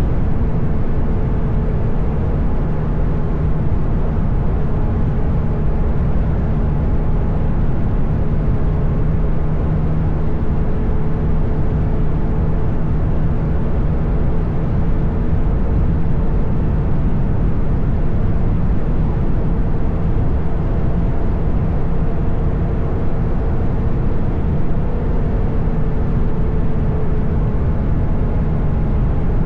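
Motorcycle engine running steadily at an even cruising speed, its hum mixed with a dense rush of wind and road noise.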